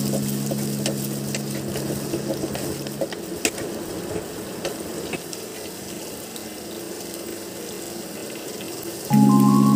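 Onions and tomatoes sizzling in oil in a pot while a wooden spatula stirs them, with small scattered clicks of the spatula against the pot. Soft sustained background music fades out in the first three seconds and comes back in loudly near the end.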